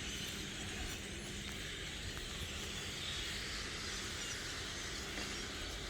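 A large flock of birds calling at once, heard as a continuous, even din of chatter with no single call standing out.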